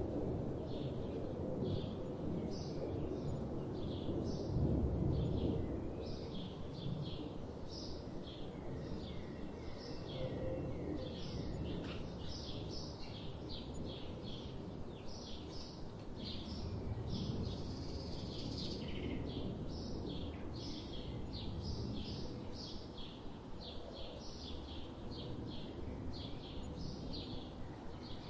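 Several songbirds singing in a dense, continuous chorus of short, quick chirps, over a steady low background rumble.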